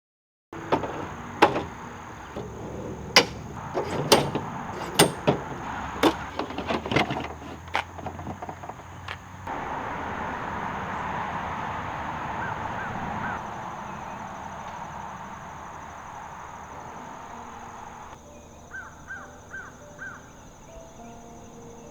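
Rain coming down hard, with sharp loud drops striking close by over the first half, then a steady hiss. A bird calls in two short runs of about four quick calls, one near the middle and one near the end.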